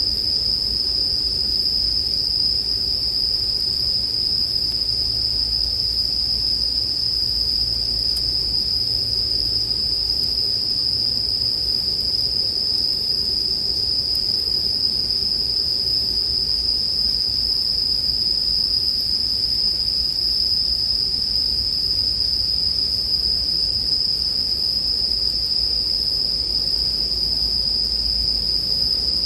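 Bell crickets (suzumushi) chirping in a steady, unbroken high-pitched chorus, with a faint low rumble underneath.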